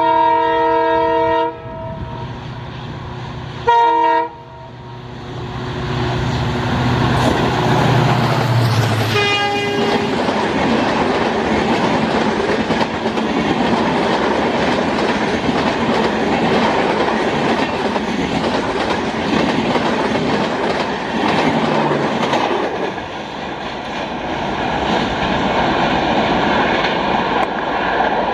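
A diesel locomotive's multi-tone horn sounds a long blast and then a short one about four seconds in. The locomotive's engine then passes with a low rumble, followed by a long passenger rake of LHB coaches running past at speed with steady wheel-and-rail rolling noise and clatter.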